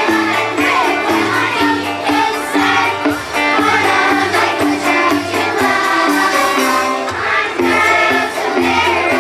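School children's choir singing a song in unison over an instrumental accompaniment with a steady bass line and a jingling percussion part.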